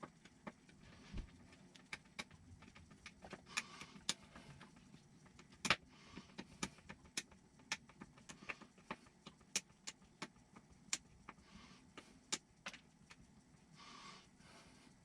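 Scattered sharp clicks and taps of small parts and hand tools being handled on a workbench, with a few brief rustles.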